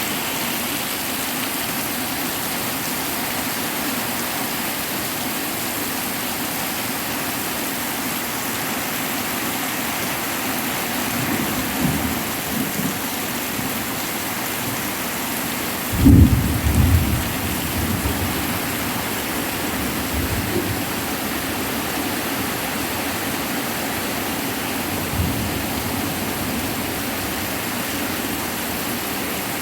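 Heavy rain falling steadily, with thunder: a low rumble building about eleven seconds in, a loud sudden clap with a rolling rumble about sixteen seconds in, and fainter rumbles after it.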